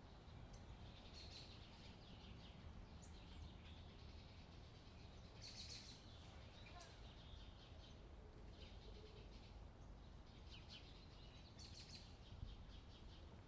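Faint outdoor ambience: scattered short, high bird chirps and calls over a steady low wind rumble.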